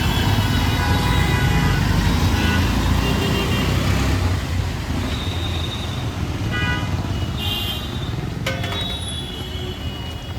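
Street traffic: a vehicle engine rumbling close by, loudest in the first four seconds, with several short horn toots. A sharp click comes about eight and a half seconds in.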